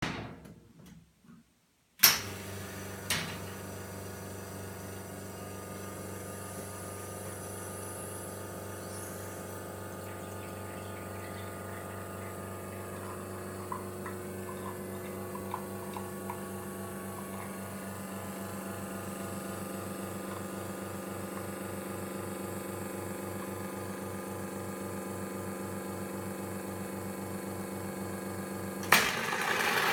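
San Marco espresso machine's pump switching on with a click about two seconds in and running with a steady hum while water flows. Near the end the hum cuts off with a click and a louder hiss starts.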